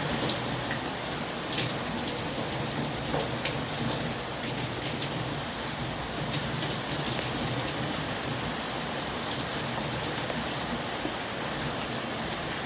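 Heavy rain falling steadily: a dense, even hiss with many sharp individual drop hits scattered throughout.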